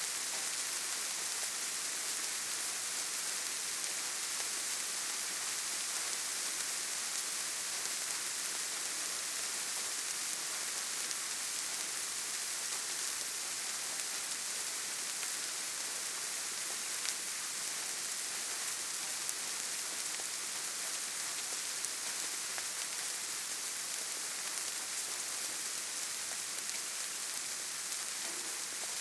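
Steady rainfall pattering on leaves and ground, an even hiss with occasional sharper single drops.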